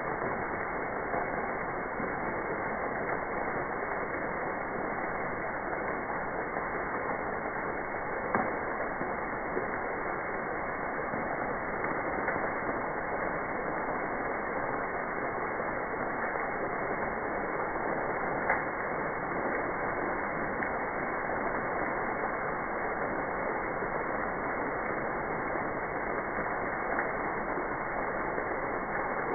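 Freezing rain ticking and crackling steadily, with a few sharper clicks here and there.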